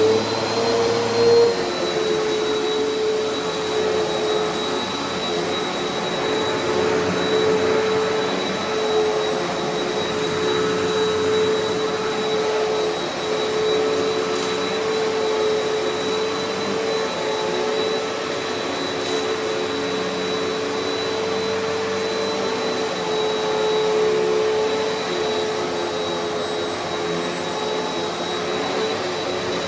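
Eureka Altima upright vacuum cleaner finishing its spin-up after switching on, then running steadily with a constant motor whine while it vacuums long-neglected carpet.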